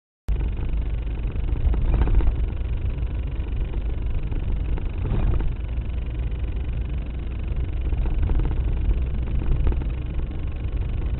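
A car driving: a steady low rumble of engine and road noise that starts abruptly just after the beginning.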